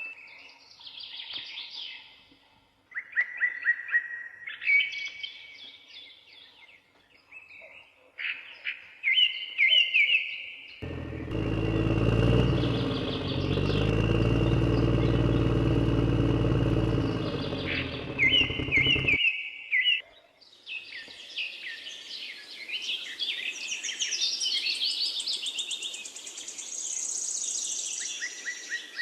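Birds chirping and tweeting, broken about eleven seconds in by roughly eight seconds of a small engine running steadily, louder than the birdsong, which cuts off suddenly before the chirping returns.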